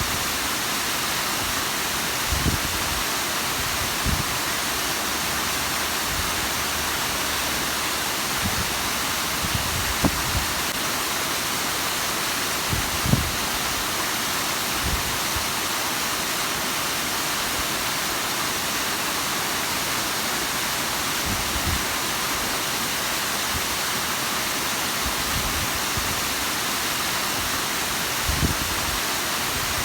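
Bigăr waterfall's water falling and splashing, a steady rushing hiss with a few brief low thumps now and then.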